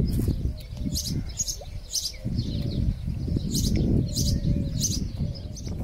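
Small birds chirping, short high chirps about two a second, over a low rumbling noise.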